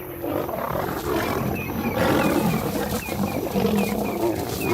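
African lions growling and snarling in a fight, lionesses squaring off against a male. A faint high chirp repeats in the background.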